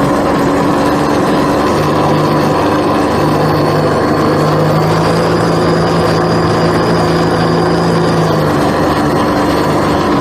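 Jet ski engines running steadily under load while towing a floating water-filled dam, with a faint high whine above the engine tone.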